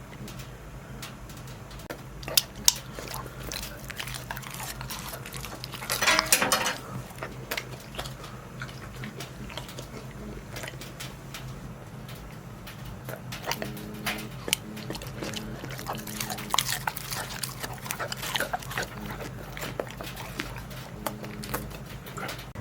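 A dog making small vocal sounds: a louder burst about six seconds in, then short, repeated pitched sounds through the second half, over a steady low hum and scattered light clicks.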